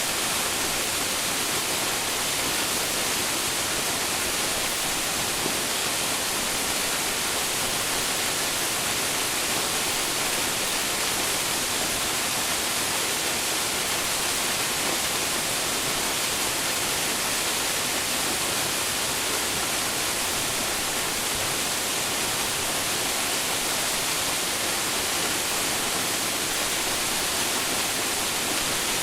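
Ichijo-daki waterfall: water falling and splashing in a steady, even rush with no breaks.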